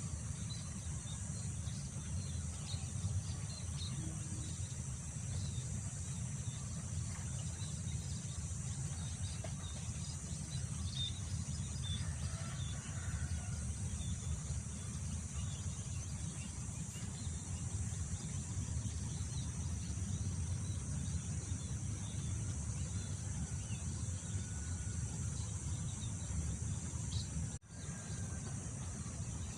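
Wind rumbling steadily on the microphone over a rice field, with a constant high drone of crickets or other insects and scattered short bird chirps. The sound cuts out briefly near the end.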